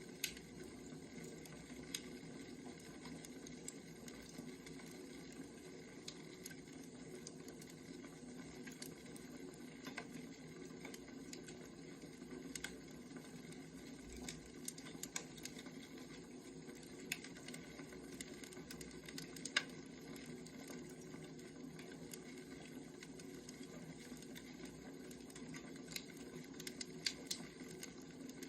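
Burning firewood crackling, with scattered irregular pops over a steady low hiss and hum; one louder pop comes near the two-thirds mark.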